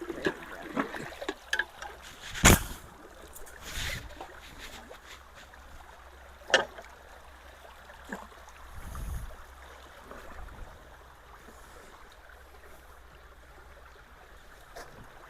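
Ditch water trickling and running through debris. Several sharp knocks break in over the first seven seconds, the loudest about two and a half seconds in and another about six and a half seconds in, with a dull thud around nine seconds.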